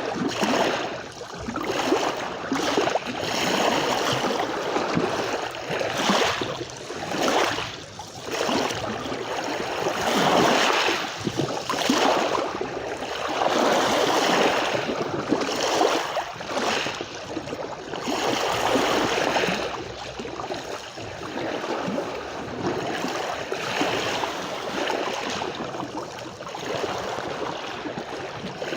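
Sea waves breaking and washing on a beach, the surf rising and easing every few seconds.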